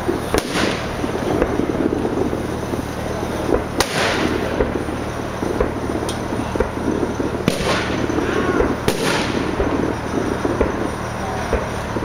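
Fireworks display: four loud shell bursts, each with an echoing tail, about 3 to 4 seconds apart near the start and closer together later, over a continuous crackle.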